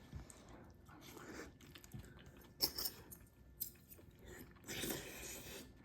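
Close eating sounds: chewing spicy mapo tofu over rice, with a few short clicks and a longer rustling swell about five seconds in.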